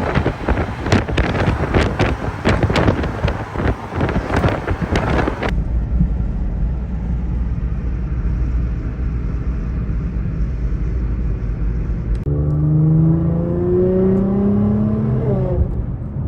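Road driving heard from inside a Nissan GT-R: for the first five seconds, heavy wind buffeting on the microphone over engine and road noise. Then comes a steady low drone in the cabin. About twelve seconds in, the GT-R's twin-turbo 3.8-litre V6 accelerates with a rising pitch for about three seconds before easing off.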